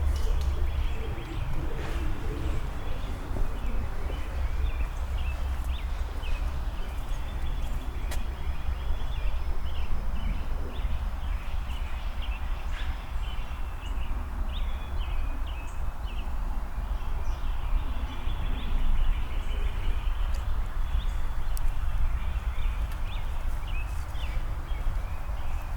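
Many songbirds chirping and singing continuously over the steady footsteps of someone walking on pavement in hiking boots, with a low rumble underneath.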